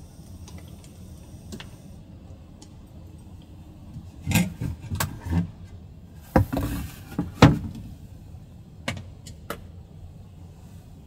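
A run of sharp knocks and clicks over a low steady background, with a short rustling burst in the middle, like objects being handled.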